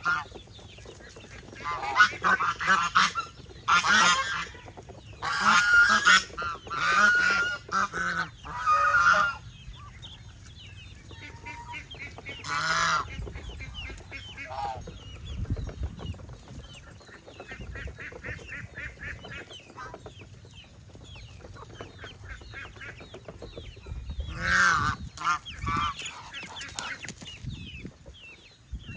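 Domestic geese honking in loud bursts of repeated calls, most of them in the first third, one near the middle and another cluster near the end. A steady layer of softer, rapid calling from the rest of the poultry flock runs underneath.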